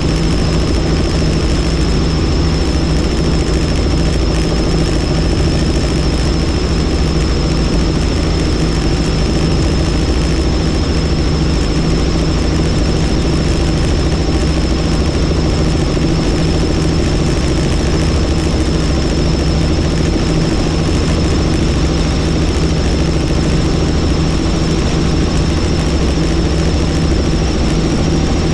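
Helicopter in flight, heard from on board: steady rotor and turbine engine noise with a constant high whine.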